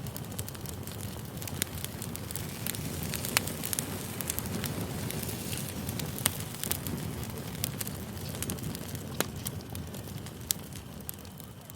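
Campfire burning, a steady low rumble of the flames with frequent sharp crackles and pops from the wood.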